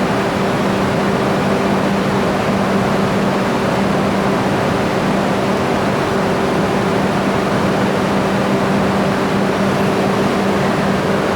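Steady cabin noise inside an E3 series Shinkansen car: an even rushing noise with a constant low hum that neither rises nor falls.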